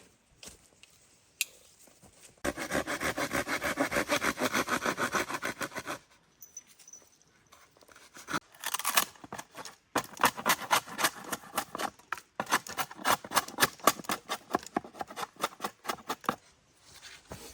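Saw cutting wood in quick, even back-and-forth strokes, in three spells with short pauses between them.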